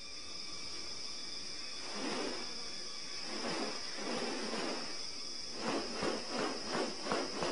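A steady, high-pitched insect drone, with a series of breathy swishing noises from about two seconds in that come quicker and closer together near the end.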